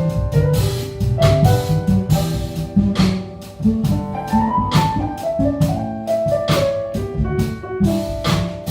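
Live jazz piano trio playing: piano lines over a plucked bass and a drum kit with frequent cymbal and drum strokes.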